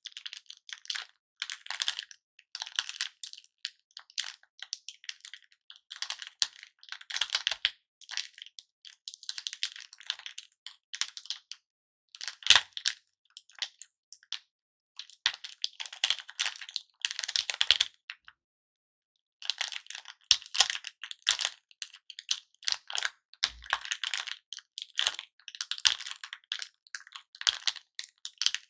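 Broken pieces of hard-candy lollipop handled and stirred, clicking and clattering against each other in repeated short bursts, with one sharp crack about twelve seconds in and a brief pause about two-thirds of the way through.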